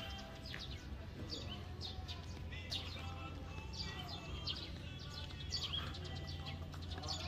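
Small birds chirping repeatedly in short, quick calls over a low steady rumble.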